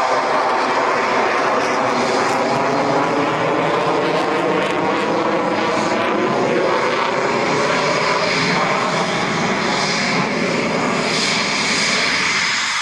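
Eurofighter Typhoon's twin turbofan jet engines running: a loud, steady jet rush with a high whine, its pattern slowly shifting throughout.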